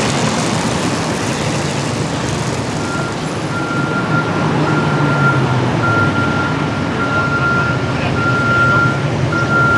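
Street traffic running steadily, with a truck engine and, from about three seconds in, a reversing beeper repeating a single high tone roughly once a second.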